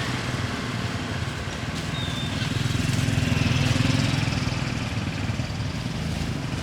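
A small vehicle engine running steadily, growing louder a couple of seconds in and easing off again near the end.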